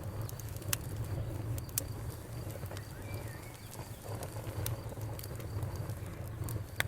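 A wood bonfire crackling, with sharp pops scattered irregularly over a steady low rumble. A cricket chirps faintly in short high pulses at times.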